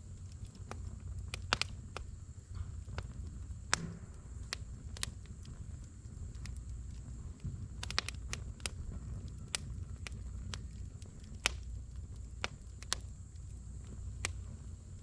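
Split firewood burning in a fire brazier, crackling with irregular sharp pops and a few louder snaps over a low steady rumble.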